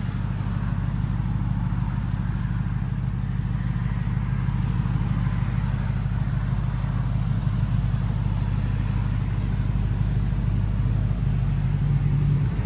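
Porsche Panamera GTS's 4.0-litre twin-turbo V8 idling steadily with a low, even hum.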